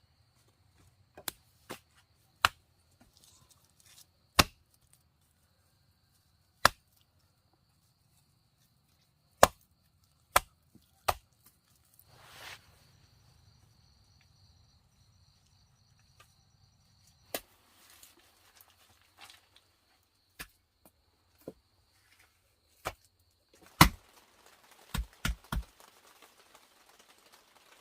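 Sharp chopping strikes into wood, about fifteen blows at irregular spacing with a quick run of three near the end. A faint steady high insect buzz runs behind them until a few seconds before the end.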